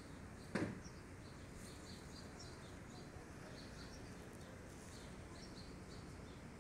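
Faint outdoor background with small birds chirping over and over in short high notes, and a single sharp thump about half a second in.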